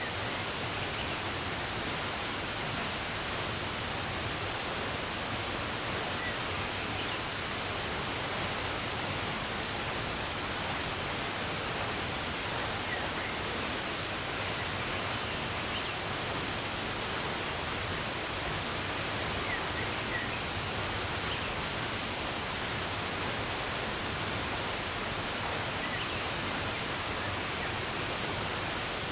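Running water with a steady, even rush, and a few faint bird chirps scattered through it.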